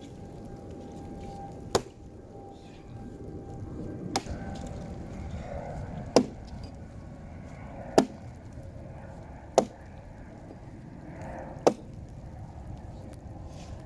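Axe chopping into a dead tree of well-seasoned wood: six separate strikes, roughly two seconds apart.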